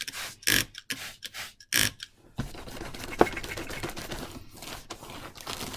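A cloth wiping down a table: two short hissing bursts early on, then steady rubbing against the surface, with one sharp knock about three seconds in.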